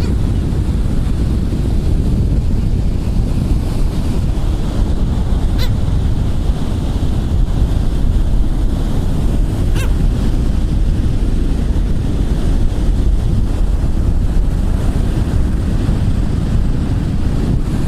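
Wind buffeting the microphone over breaking surf, a steady loud rumble. There are two brief sharp clicks about four seconds apart.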